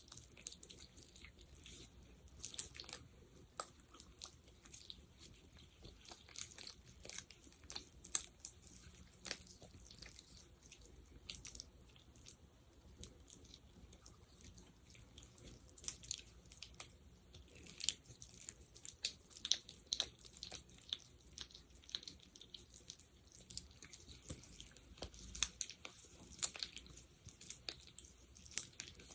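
Sticky gel worked by hand close to the microphone: irregular wet clicks and crackles as it is pressed and pulled apart, denser in the second half.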